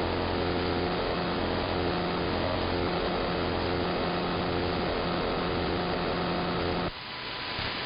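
AM radio reception buried in electrical interference: a steady buzz with many overtones over static, like a motor running at a constant speed, which the listener takes for something electromechanical, possibly from a nearby industrial park. About seven seconds in the buzz cuts off suddenly, leaving plain radio hiss.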